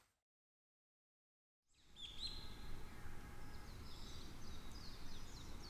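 Silence for under two seconds, then outdoor ambience fades in: a low steady rumble with small birds chirping repeatedly in short calls.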